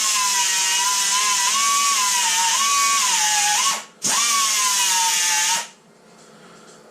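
Electric grinder grinding car-door sheet steel back to clean metal before welding, run in bursts: a high whine with a hiss of abrasion that wavers and dips in pitch as it bites. It stops just before 4 seconds in, runs again briefly, then stops.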